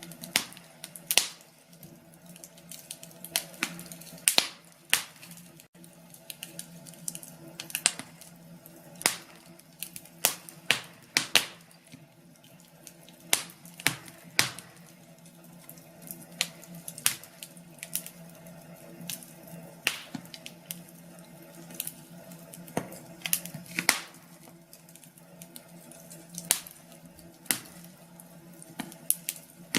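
Wood fire in a fireplace crackling and popping, with sharp pops at irregular intervals over a faint steady low hum.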